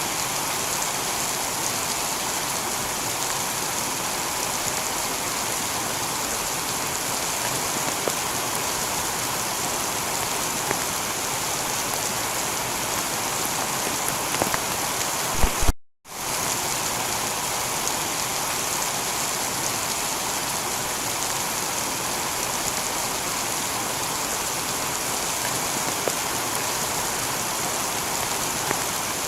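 Steady heavy rain shower falling on a tiled roof, an even hiss of drops with a few louder drop ticks. About halfway through, the sound cuts out to silence for a split second and fades back in.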